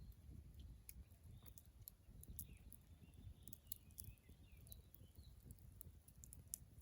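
Faint campfire crackling: sparse sharp pops scattered through, with a few faint bird chirps.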